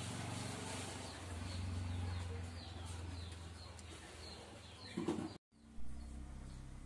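A steady low hum with hiss underneath, and faint short falling bird chirps repeating a few times a second. About five seconds in there is a brief clatter, then the sound cuts off for a moment and resumes with a different hum.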